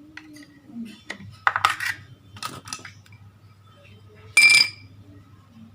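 Small metal parts and tools clinking and clattering on a work surface during repair of a power window motor, with one loud ringing metallic clink about four and a half seconds in. A low steady hum sits underneath from about a second in.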